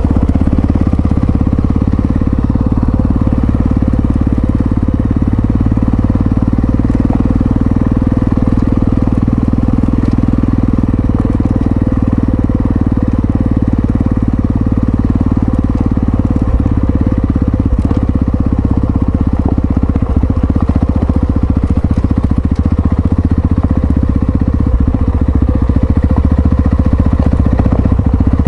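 Yamaha XT660Z Ténéré's single-cylinder engine running steadily while riding, with no marked rise or fall in revs.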